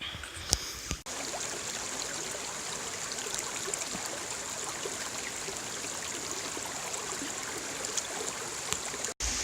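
A stream flowing: a steady rush of running water that cuts off abruptly just before the end.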